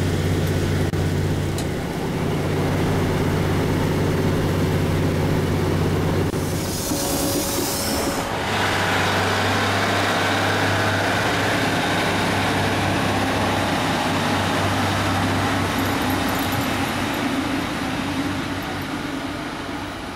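Diesel multiple-unit train running: a steady engine drone and rail noise, then, after a short hiss about seven seconds in, a diesel unit's engine working at the platform and fading toward the end as the train moves off.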